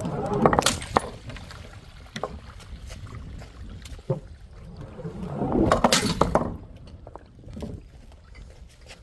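Two loud crashing impacts with splashing liquid, one about half a second in and one around six seconds in, from dropped objects breaking, with scattered smaller clinks and patters in between.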